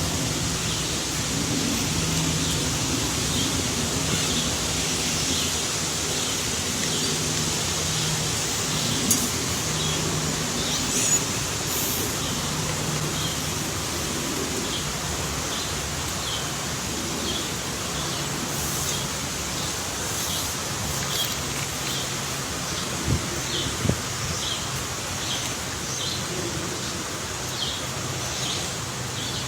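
Steady outdoor hiss with a short high call repeating about once a second, and a few sharp knocks, two of them close together about two-thirds of the way through.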